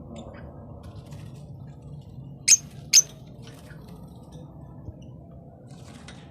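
Caged pet birds chirping: two sharp, shrill squeaks about half a second apart, with fainter short chirps around them over a steady low hum.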